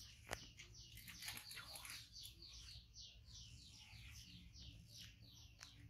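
A small bird chirping faintly in the background: a rapid run of short, high, falling chirps, about three or four a second. A single sharp click sounds just after the start.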